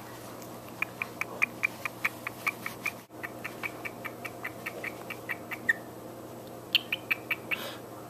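Pet bird singing: long runs of short, high, evenly repeated chirps, about four or five a second, directed at an oven mitt it is fixated on.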